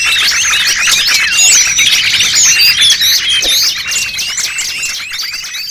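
Dense chorus of many small songbirds chirping and twittering over one another, a bird-lure (pikat) recording meant to draw small wild birds in. It begins to fade out about four seconds in.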